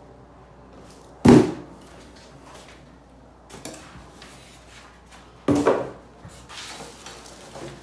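Parts of a bandsaw stand being handled and set down during unpacking: two loud knocks, about a second in and again past five seconds, with lighter clunks and handling noise between.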